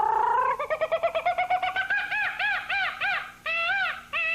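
A human voice imitating jungle animal calls. It makes a long whooping glide, then a fast warbling trill, then a string of rising-and-falling hoots, about three a second, that spread further apart toward the end.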